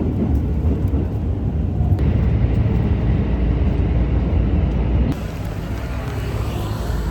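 Steady low rumble of vehicle noise, with the sound changing abruptly about two seconds in and again about five seconds in.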